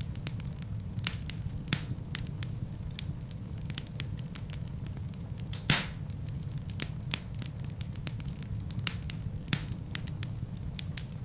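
Fire crackling in a fireplace: irregular sharp pops and snaps over a steady low rumble of flames, with one louder pop about halfway through.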